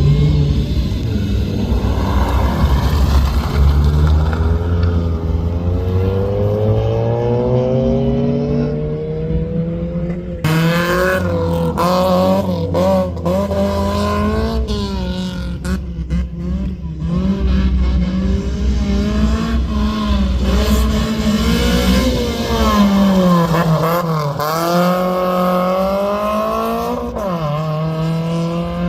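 Rally car engine running hard at speed, its pitch climbing under acceleration and dropping back at each gear change, several times over. About ten seconds in, the sound changes abruptly and becomes brighter.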